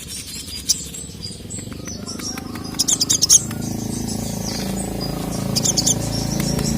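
Sogok ontong (sogon, little spiderhunter) calling: quick clusters of sharp, high chirps about three seconds in and again near the end, over a low steady hum.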